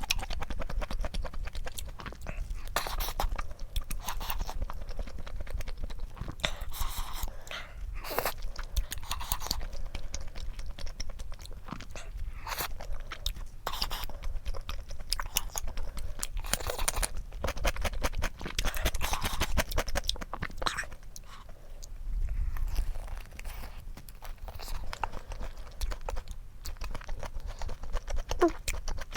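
Close-miked chewing and biting of food, with irregular crunchy bites throughout.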